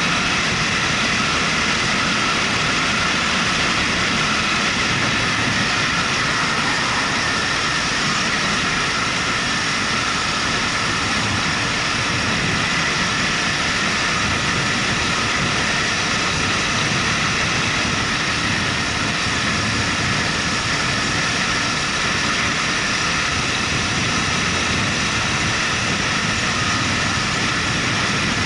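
Motorcycle riding at a steady speed: a continuous rush of wind and engine noise that does not change.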